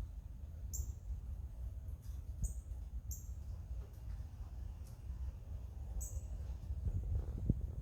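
Small birds giving short, high chirps, about four a second or two apart, over a steady low rumble.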